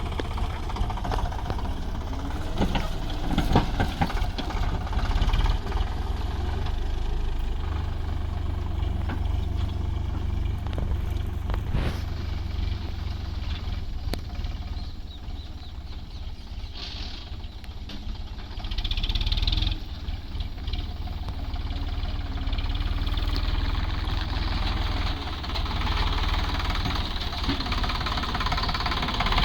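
Sonalika DI 745 III tractor's diesel engine running with a steady low rumble, with scattered knocks and clatters over it. It drops a little quieter in the middle and picks up again toward the end.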